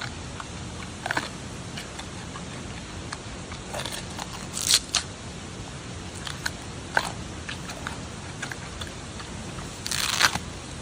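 Giant panda biting and crunching bamboo: irregular sharp cracks of splitting stalk, the loudest near the middle and a longer crunching spell near the end, over a steady background hiss.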